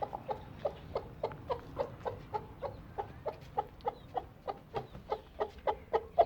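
Hen clucking in a steady, even run of short clucks, about three or four a second.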